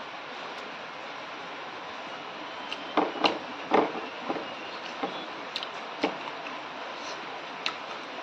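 A person eating rice and fried pork by hand, chewing a mouthful: a cluster of loud wet clicks and smacks about three to four seconds in, then a few scattered single clicks over a steady hiss.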